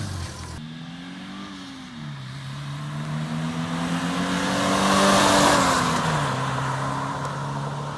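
2001 Subaru Outback Sport's flat-four boxer engine revving through an exhaust with the catalytic converter removed. There is a short blip about half a second in, then a slow climb to the loudest point about five seconds in, before it falls back and holds a steady speed near the end.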